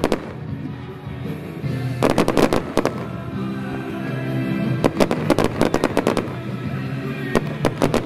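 Fireworks going off in rapid volleys of sharp bangs and crackles, about two seconds in, around five seconds in and again near the end, with music playing underneath.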